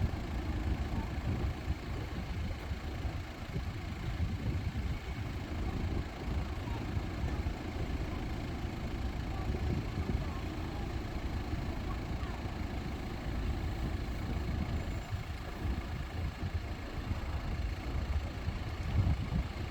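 Low, steady rumble of road vehicles idling in traffic at the crossing, with no train yet passing.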